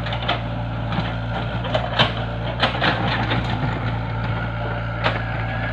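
Excavator engine running steadily, with sharp knocks and cracks every second or two as it works.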